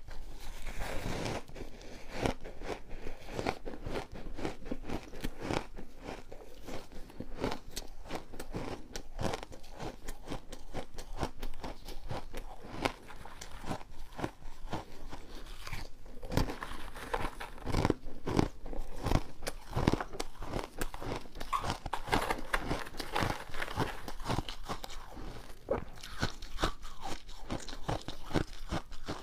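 Refrozen ice being bitten and chewed close to the microphone: a continuous run of sharp crunches and cracks.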